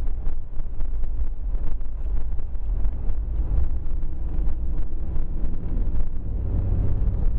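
Steady low rumble of a four-wheel-drive vehicle driving, heard from inside the cabin.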